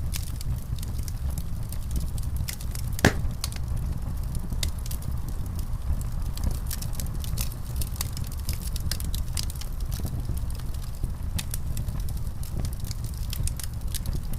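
Wood fire crackling in a fireplace: a steady low rumble with scattered small crackles and pops, and one louder pop about three seconds in.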